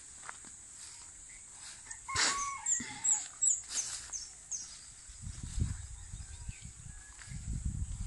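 Bird calls: a short pitched call about two seconds in, then a quick run of high chirps. From about five seconds on, low rumbling noise takes over.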